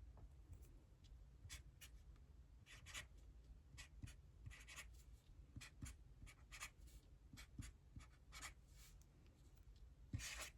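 Faint scratching of handwriting: short, irregular writing strokes, as when working through math problems by hand, with a slightly louder scrape near the end.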